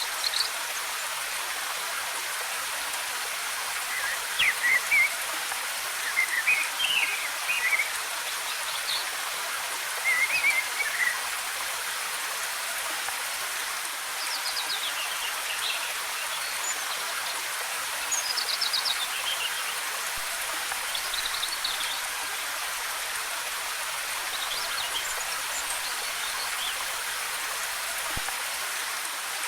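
Steady rushing hiss of a waterfall, with birds singing short chirping phrases every few seconds over it.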